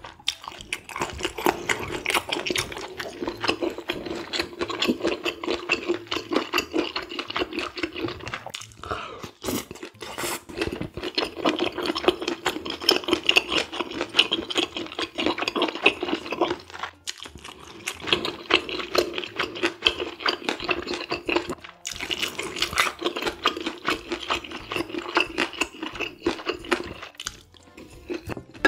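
Close-miked wet, sticky chewing of spicy stir-fried squid and pork, full of small mouth clicks and smacks, pausing briefly a few times between bites.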